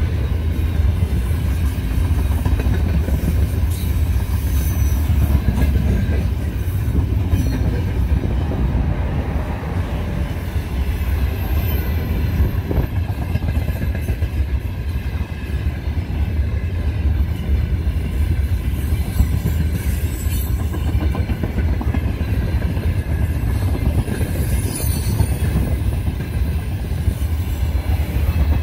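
Freight train of open gondola wagons rolling past close by: a steady, loud rumble of steel wheels on the rails.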